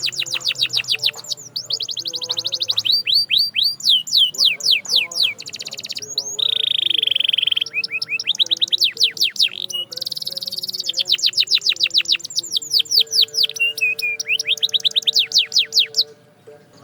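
Canary singing in fast trills of rapidly repeated downward-sweeping notes, with a steady rolled note of about a second some six seconds in. The song stops suddenly near the end.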